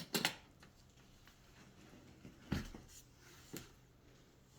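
Box set packaging being handled by hand: a few sharp clicks and knocks, one just after the start, a louder one about two and a half seconds in and a lighter one a second later, with quiet between.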